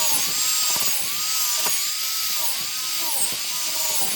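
Small high-speed power tool motor whining, its pitch sagging and recovering again and again as it is pressed into the wood, with a bright hiss over it.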